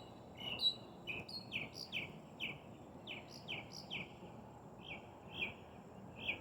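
A songbird singing a run of short, falling chirps, roughly three a second, thinning out near the end.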